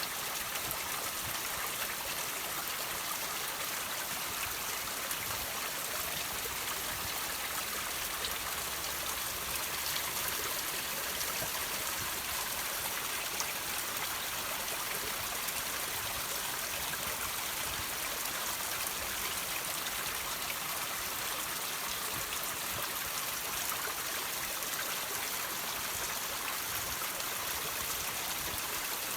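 Water trickling and dripping over rocks: a steady, even hiss of running water with faint scattered drip ticks.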